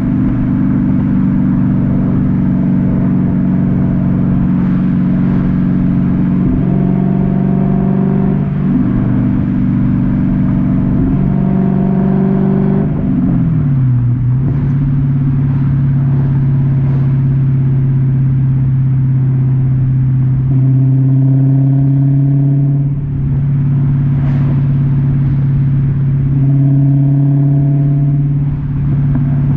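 Exhaust of a 2009 Dodge Challenger SRT-8's 6.1-litre Hemi V8 while driving under normal acceleration. The engine note holds mostly steady, slides down in pitch about halfway through, then runs on at a lower, steady note.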